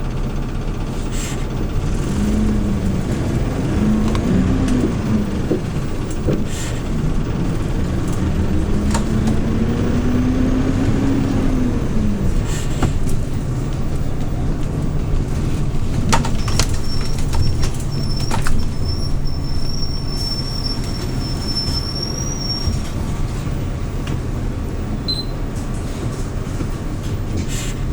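Hyundai New Super Aero City CNG city bus under way, heard from inside the cabin: a steady low engine rumble with a whine that rises and falls a few times in the first half as the bus speeds up and slows. Scattered sharp clicks and rattles, and a thin high whistle for several seconds in the middle.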